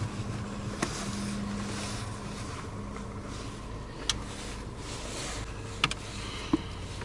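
Land Rover Discovery on the move over rough ground: a steady low rumble of engine and tyres, with a few short sharp knocks or rattles scattered through it.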